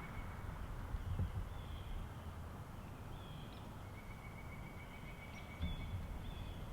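Wind rumbling on the microphone, with a songbird's even, rapid trill at one pitch heard twice, the second time for about a second and a half, and a few short higher chirps in between.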